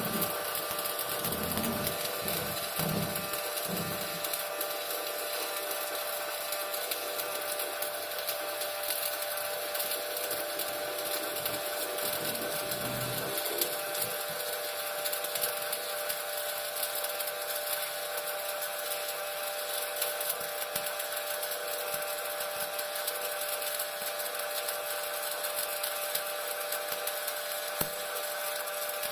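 Stick (shielded metal arc) welding arc crackling and sizzling steadily as a weld is run on carbon steel pipe, with steady humming tones underneath.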